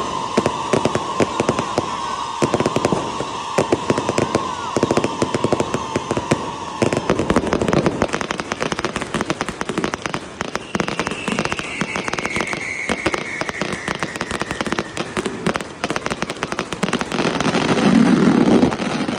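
Fireworks going off in a dense, rapid crackle of bangs and pops. A steady whistle sounds over the first several seconds, a second whistle slowly falls in pitch in the middle, and the bangs are loudest near the end.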